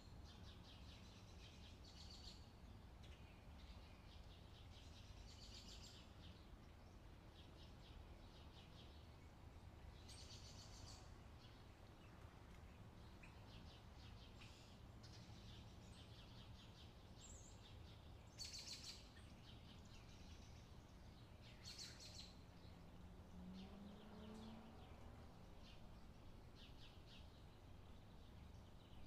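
Near silence: a faint steady low hum, with faint high bird chirps now and then.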